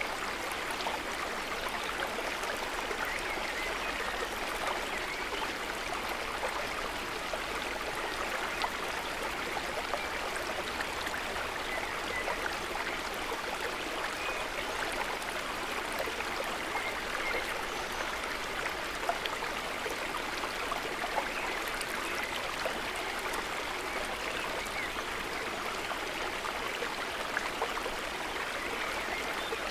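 River water running steadily: a constant rush with fine splashing and small gurgles over it.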